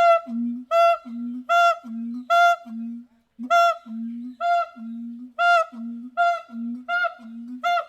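An animal calling over and over in a steady rhythm, honk-like: a short high note followed at once by a longer low note, the pair repeating roughly every 0.8 seconds.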